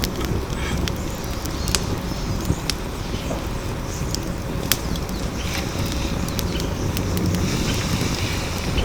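Firewood burning in a steel fire pit: a steady low rush with sharp, scattered pops and crackles.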